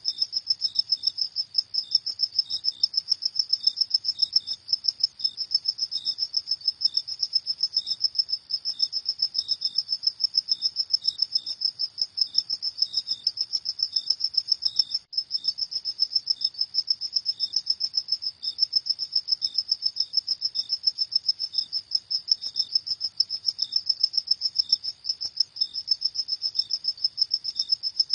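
Crickets chirping: a steady high-pitched pulsing trill, several chirps a second, with a second, fainter chirping just below it.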